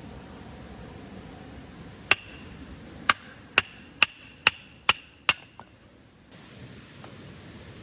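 A series of sharp chopping strikes, each with a short ring: one on its own about two seconds in, then six in quick succession about half a second apart.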